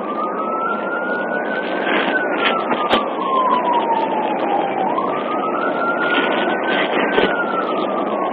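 Police siren in wail mode, slowly rising and falling about every five seconds, over steady loud road and engine noise, with a couple of sharp clicks.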